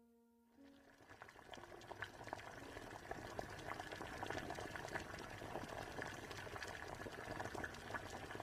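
Liquid boiling and bubbling, a dense run of small pops and crackles, fading in about half a second in and building over the next couple of seconds.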